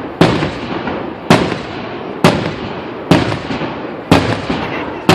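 Loud fireworks display shells bursting overhead, a steady run of booms about one a second, each trailing off in a rolling echo.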